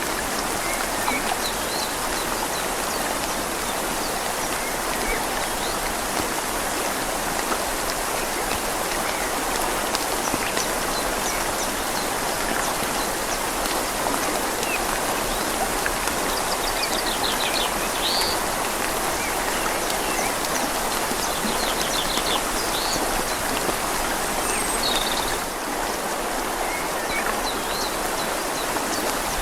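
Steady rain falling on leaves over a flowing river, an even wash of water noise. A bird chirps faintly a few times around the middle.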